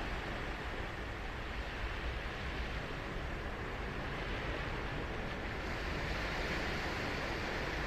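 Ocean surf breaking and washing on a sandy beach, a steady rush that swells a little toward the end.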